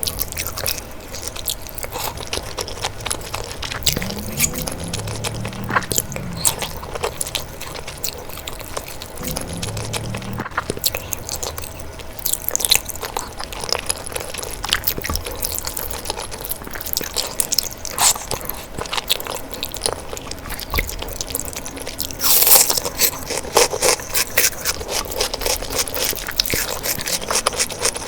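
Close-miked eating: crunchy bites and wet chewing with many sharp mouth clicks, loudest in a burst a little over twenty seconds in.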